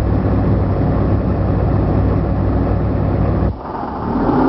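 Heavy truck engine running steadily on the road, a deep low drone. About three and a half seconds in the sound cuts abruptly to a quieter, more even engine note.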